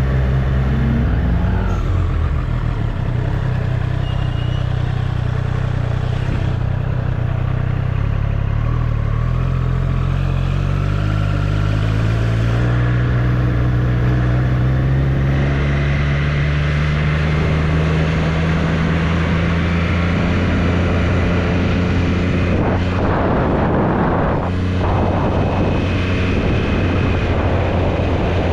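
Triumph Street Triple's inline three-cylinder engine running on the move, its pitch rising slowly and steadily through the middle as the bike accelerates. Bursts of rushing noise come in about three-quarters of the way through.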